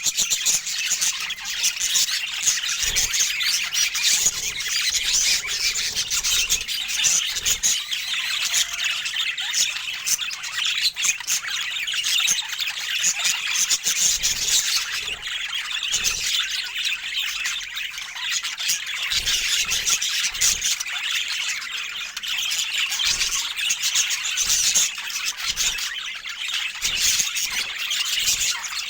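Budgerigars chattering without pause: a dense stream of quick high chirps, squawks and screechy warbles.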